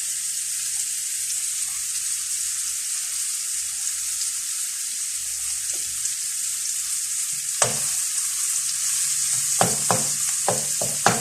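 Food sizzling steadily in a frying pan, a steady high hiss. A spoon knocks against the pan once about two-thirds of the way in, then several times near the end as the food is stirred.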